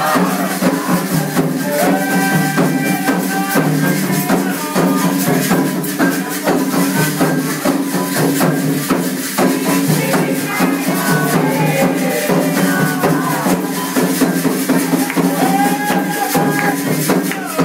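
Candomblé ritual music: a group sings a chant over dense hand percussion, with a rattle shaking steadily. The title names the rhythm as the rum of Xangô, played on atabaque drums led by the large rum drum.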